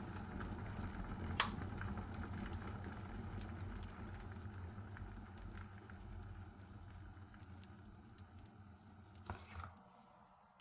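A low, steady engine rumble, like a vehicle idling, fading out over several seconds, with scattered small clicks and one sharp click about a second and a half in.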